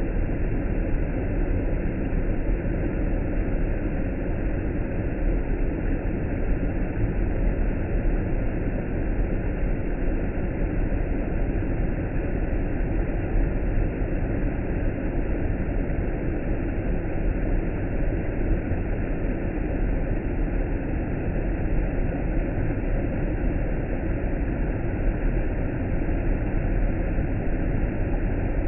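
Waterfall: an even, steady rush of falling water, strongest in the low range.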